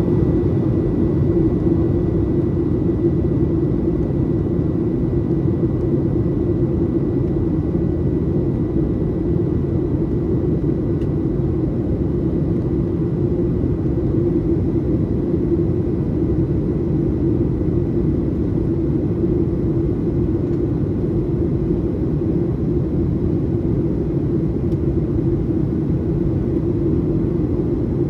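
Steady cabin rumble inside a Boeing 737-800, the engines and rushing air, with a faint thin whine that fades out about halfway through.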